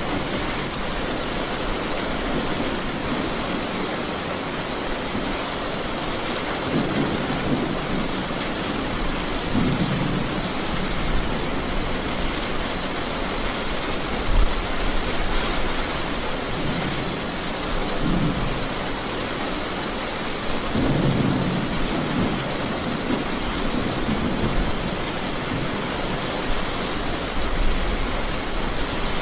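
Steady heavy rain with thunder rumbling several times, the loudest roll about halfway through.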